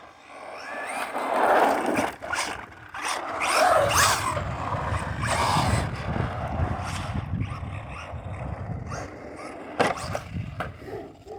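Arrma Vorteks 2WD brushless 1/10 RC truck driving on pavement: the brushless motor whines in rising bursts with the throttle over the sound of its tyres rolling and scraping. A sharp knock comes near the end.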